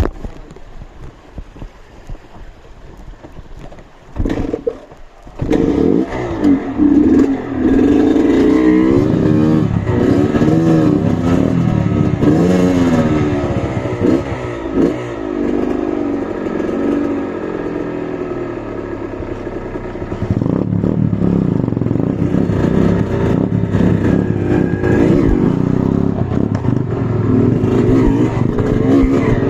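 Off-road trail motorcycle engine revving hard and repeatedly, its pitch rising and falling as the rider works the throttle, starting about five seconds in after some clattering and scraping. The revs ease off midway, then build again.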